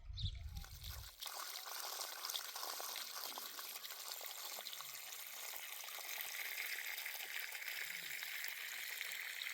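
Steady hiss of running or pouring water, which sets in after a low rumble that stops about a second in and grows a little brighter from about six seconds.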